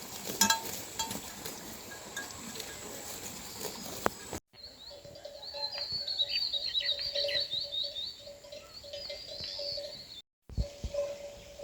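Outdoor ambience cut together from pieces. First comes a steady hiss with scattered sharp clicks. After a sudden break about four seconds in, small birds twitter in quick high runs over a steady low tone that keeps breaking off.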